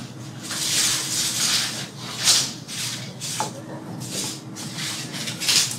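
Rustling and scuffing noises in several bursts, the clearest about a second in, a short one past the middle and one near the end.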